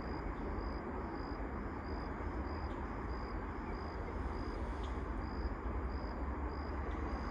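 A cricket chirping steadily, short high chirps about twice a second, over a steady low rumble.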